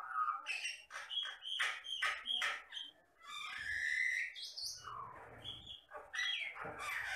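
Jalak Batam myna singing a rapid, varied song of whistles, gliding notes and harsh squawky chatter, with a short break about three seconds in.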